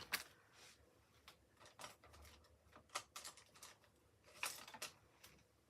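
Faint, scattered clicks and taps of small craft tools and items being picked up and handled on a desk, with near silence between them.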